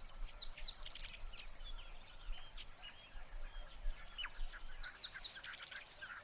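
Birds chirping: many short, quick high notes and downward-sweeping calls over a faint outdoor hiss.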